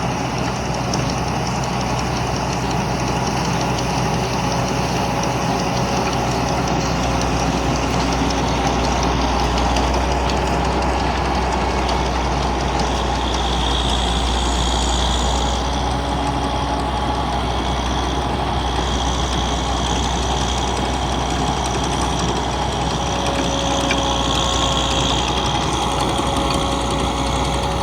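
Rice harvesting machine running steadily, its engine and working parts making a continuous mechanical drone with a low rumble.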